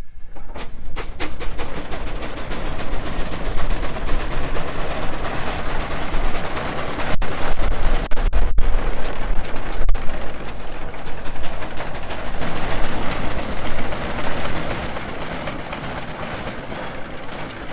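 Rumely steam traction engine working, its exhaust chuffing in a rapid, unbroken rattle that merges into a rush of noise. It builds to its loudest around the middle and eases off a few seconds before the end.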